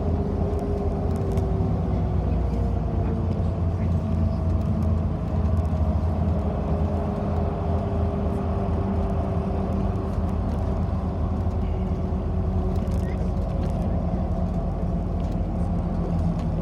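City bus under way, heard from inside the passenger cabin: a steady low rumble of drivetrain and road, with a faint tone that drifts slowly in pitch.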